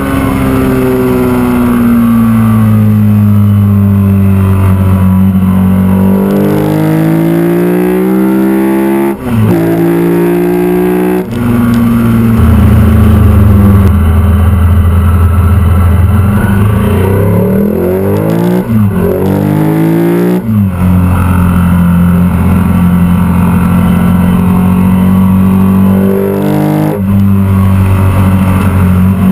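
Ducati 851's liquid-cooled 90-degree V-twin running under way, its pitch rising through each gear and dropping sharply at the shifts several times.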